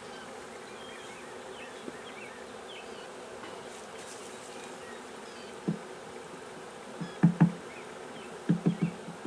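Honeybees buzzing steadily around an open hive, the bees stirred up by being brushed off the frames. Over the buzzing come a few dull knocks, one a little past halfway and a quick cluster near the end, as wooden hive parts are handled.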